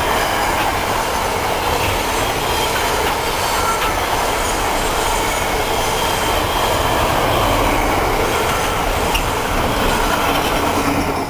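Container wagons of a Freightliner intermodal freight train rolling past at speed: a loud, steady rumble of steel wheels on the rails.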